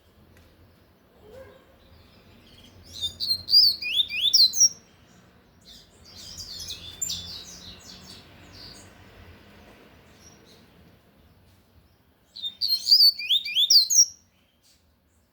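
A caged double-collared seedeater (coleiro) singing its loud 'tui-tui' song: two phrases of quick, sharp, high whistled notes about nine seconds apart, with a softer, scratchier passage between them.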